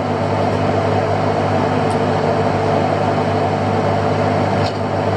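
A fishing boat's engine running steadily at an even pitch, with a faint click near the end.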